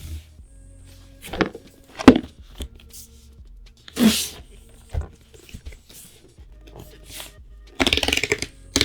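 Handling of a trading-card bundle box and its packaging: several separate knocks and taps, then a dense burst of crackly rustling, like plastic wrap, near the end.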